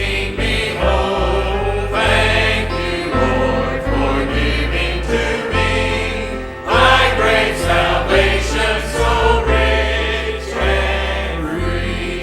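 Church music: a hymn sung by a choir over instrumental accompaniment with sustained bass notes.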